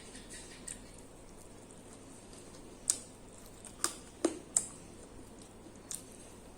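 Mukbang eating sounds: about five sharp, scattered clicks and wet smacks from chewing and handling the food, over a quiet steady background.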